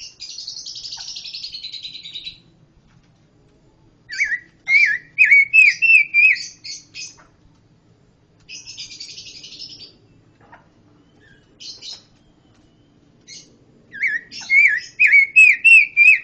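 A pancawarna songbird singing: two harsh, buzzy chattering phrases alternating with two loud phrases of quick, rising-and-falling whistled notes mixed with sharp clicks.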